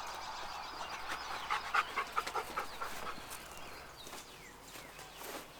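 A dog panting, a quick run of short rhythmic breaths that fades after a few seconds.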